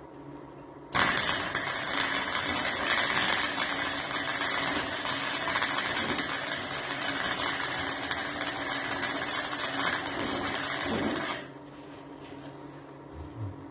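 Electric welding arc crackling steadily for about ten seconds, starting and stopping abruptly as the trigger is pulled and released.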